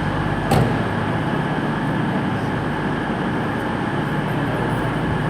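Steady drone of Class 221 Voyager diesel trains' underfloor engines running at the platform, with a single sharp knock about half a second in.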